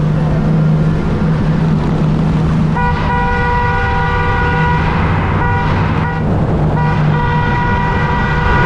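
A vehicle running steadily with road and wind noise, while a horn sounds in two long blasts: the first starts about three seconds in and the second about seven seconds in.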